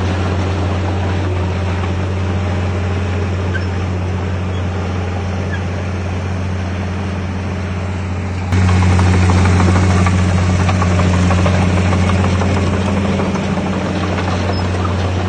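Bulldozer's diesel engine running steadily with a deep, even hum. It gets abruptly louder about eight and a half seconds in.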